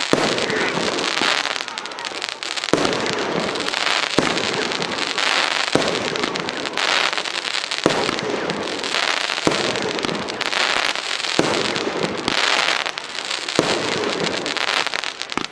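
A 13-shot consumer fireworks battery (the Argento 'Expression') firing shot after shot, a sharp launch bang about every one and a half to two seconds, each followed by a long burst of crackling.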